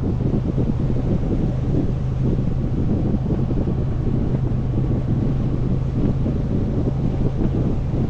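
Motorcycle riding at a steady cruise: the engine holds an even pitch under heavy wind buffeting on the microphone.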